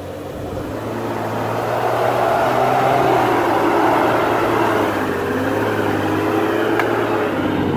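Four-wheel-drive vehicle's engine running under load, building up over the first two seconds and then holding steady, with a low hum under a rushing noise.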